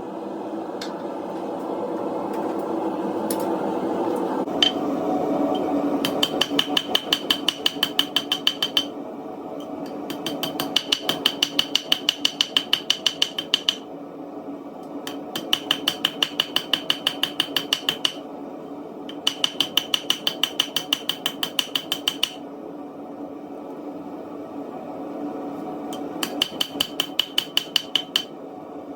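Hand hammer striking hot spring steel in five quick runs of blows, about five a second, each blow ringing sharply, with short pauses between runs as the knife blank is shaped. A steady rushing noise runs underneath throughout.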